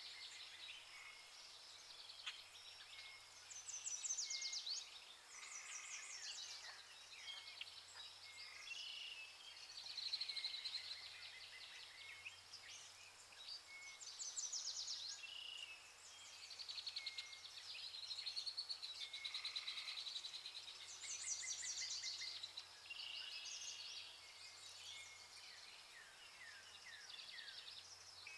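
Chorus of rainforest birds calling over one another, with rapid chirping and trilling phrases that rise and fall in loudness throughout. A faint steady low hum runs underneath.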